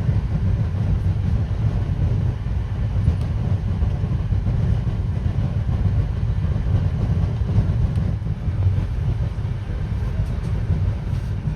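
Passenger train running along the line: a steady low rumble with faint clicks.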